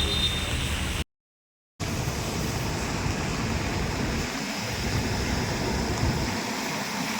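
Steady rushing noise of heavy rain and traffic on a wet road, broken by a short stretch of complete silence about a second in.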